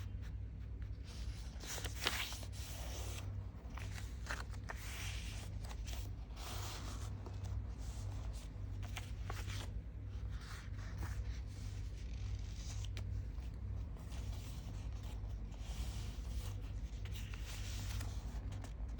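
Sheet of paper being handled and folded: irregular rustles, scrapes and short crisp clicks as folds are made and creased down. A steady low hum runs underneath.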